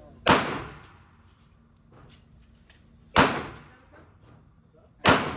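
Three gunshots, the second about three seconds after the first and the third about two seconds later, each with a loud echoing tail in an indoor shooting range.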